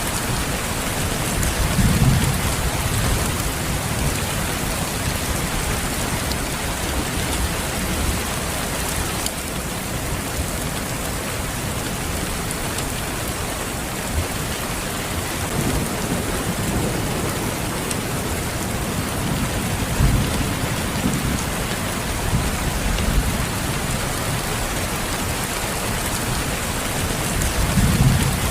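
Steady heavy rain falling, with low rolling rumbles of thunder swelling up several times: about two seconds in, a few times in the middle, and again near the end.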